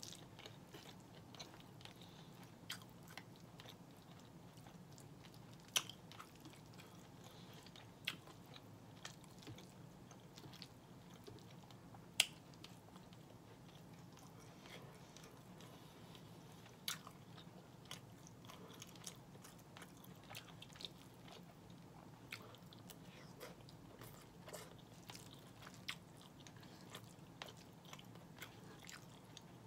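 Quiet close-up chewing and biting of a mouthful of red beans and rice with smoked turkey, broken by scattered sharp clicks of a metal fork against the plate, a few of them louder. A faint steady low hum runs underneath.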